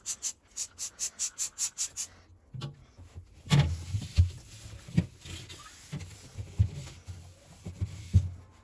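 Fast, even rubbing strokes, about five a second, typical of scrubbing a surface with a cloth or sponge, which stop about two seconds in. A series of knocks and clunks follows as household items are handled and set down, the loudest about a second and a half after the rubbing stops.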